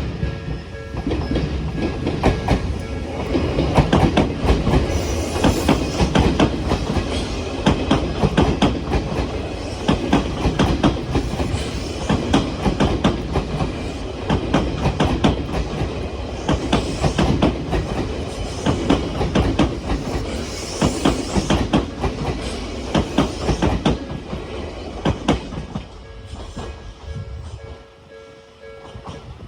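Odakyu 8000-series electric train, two coupled sets, passing over a level crossing: a long run of wheel clatter over rail joints with some wheel squeal, dying away near the end. The crossing's warning bell rings steadily under it and is heard clearly at the start and again once the train has gone.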